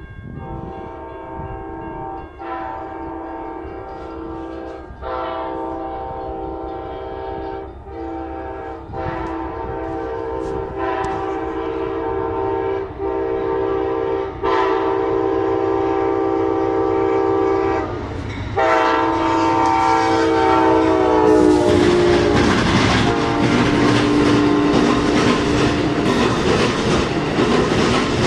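An Amtrak passenger train's locomotive horn sounds a chord in a series of long and short blasts as it approaches the grade crossing, dropping slightly in pitch as it passes about twenty seconds in. The horn then gives way to the rumble and clickety-clack of the passenger cars' wheels rolling by on the rails, loud and close.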